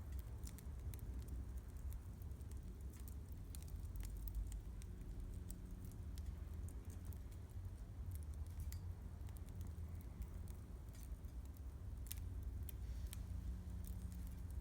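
Wood campfire crackling, with scattered sharp snaps and pops over a steady low rumble.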